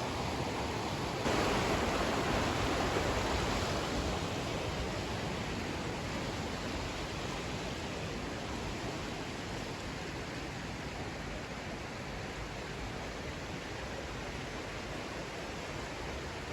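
Rushing water of a stream and small waterfall, a steady hiss-like roar that jumps louder about a second in and then slowly fades.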